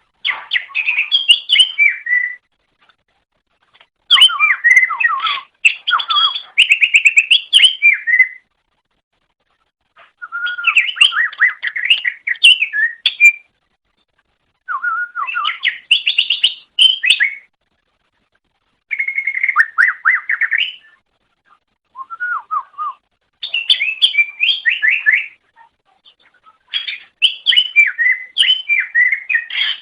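Green leafbird (cucak ijo) singing: a loud run of rapid, varied whistled and chattering phrases, each a second or two long, with short pauses between them.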